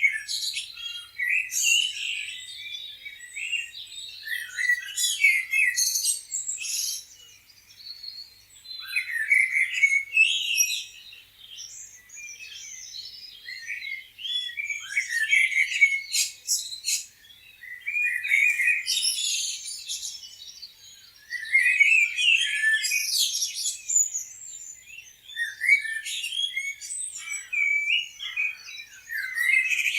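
Several birds chirping and trilling in quick, overlapping high calls, with brief lulls now and then.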